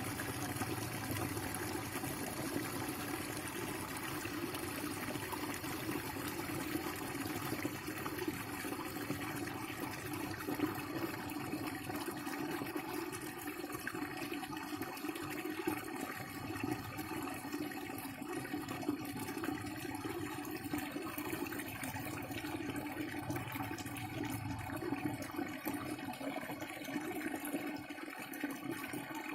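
Water running steadily, a continuous gushing flow.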